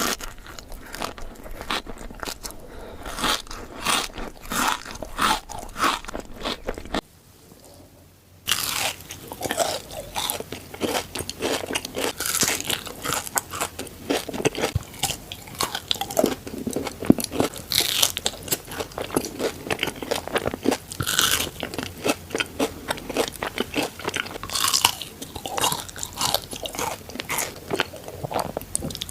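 Close-miked biting, crunching and chewing of Dubai chocolate, a chocolate bar filled with crispy kataifi pastry and pistachio cream, with many sharp crunches. The sound drops out briefly about seven seconds in, then the crunching resumes.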